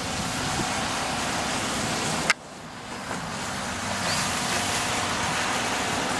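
Steady rushing wind noise on the microphone with a faint low hum underneath, broken by a sharp click a little over two seconds in, after which it drops for a moment.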